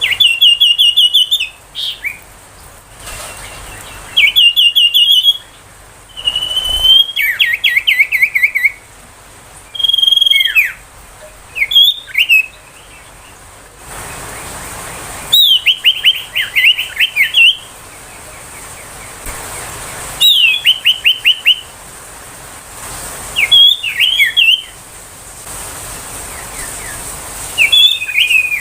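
Common iora (sirtu) calling: about ten short bursts of rapid, high whistled trill notes with pauses between them, some phrases stepping down in pitch.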